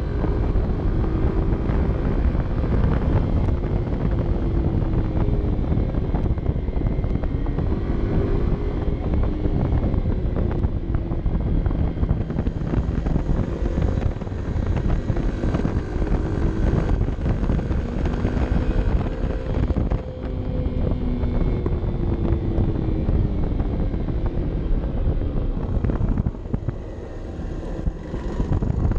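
Honda CB 125 F's single-cylinder four-stroke engine running under way, its pitch rising and falling again and again, mixed with heavy wind buffeting on a helmet- or bike-mounted action camera's microphone.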